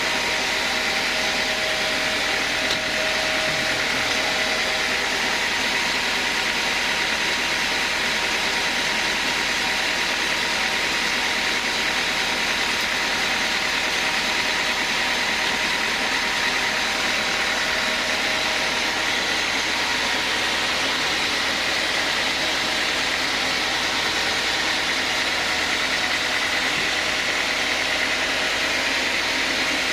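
Sawmill band saw running steadily, a constant machine drone with a strong hiss that does not change.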